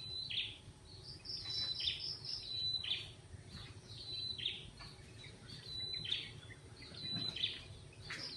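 Songbird singing, repeating the same short, high phrase over and over: a held whistled note that drops away, about once a second. A quick run of evenly spaced notes comes about a second and a half in.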